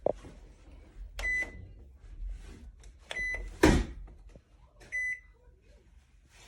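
Microwave oven control panel giving three short electronic beeps, about two seconds apart, as its buttons are pressed, with small clicks and one loud thud between the second and third beeps.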